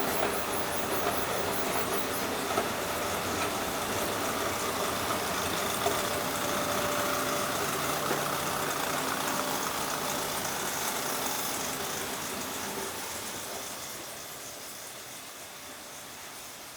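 A vehicle engine running close by with a steady hum, fading away about three-quarters of the way through.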